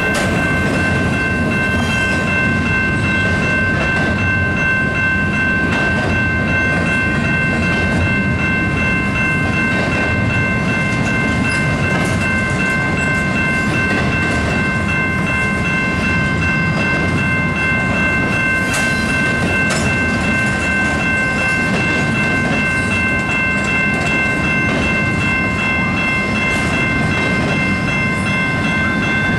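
Canadian Pacific intermodal stack train rolling past a level crossing, a steady rumble with the clatter of wheels over the rails. Throughout, the crossing's warning bell rings as a steady high ringing.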